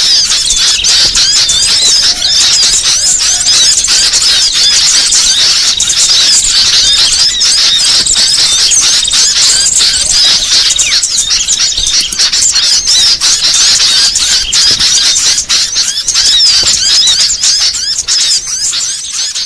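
Bird-luring recording: a dense, loud, unbroken chorus of many small songbirds chirping over one another.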